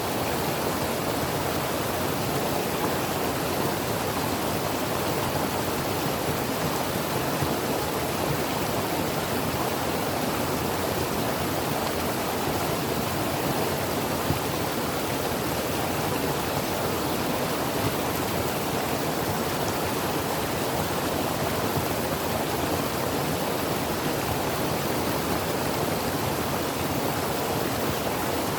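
Creek water flowing over rocks: a steady, even rushing with no change.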